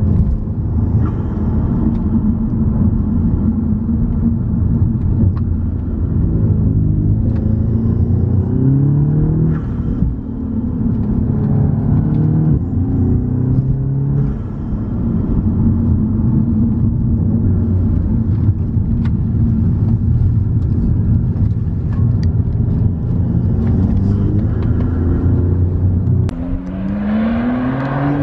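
Car engine pulling up a winding mountain road, heard from inside the cabin, its note rising and dropping with the revs and gear changes. Near the end the sound switches to an engine accelerating with a long rising pitch, heard from outside the car.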